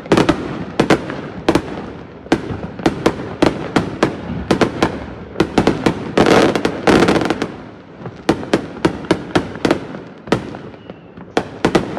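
Fireworks going off in rapid succession: a steady run of sharp bangs, several a second, with a denser burst of crackling booms around the middle.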